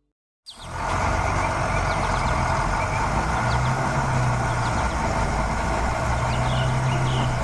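Heavy truck engine running steadily, starting about half a second in after a moment of silence.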